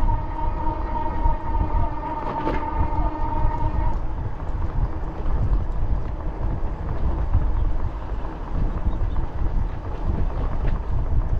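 Wind buffeting the microphone of a moving bicycle, a constant low rumble. Over it, a steady held chord of tones, like a horn or siren, stops about four seconds in.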